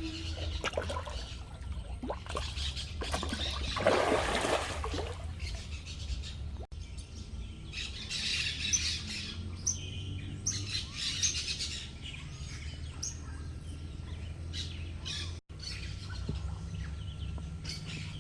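Birds chirping and calling, scattered short high notes, over a steady low hum. A brief rush of noise about four seconds in is the loudest thing, and the sound drops out for an instant twice.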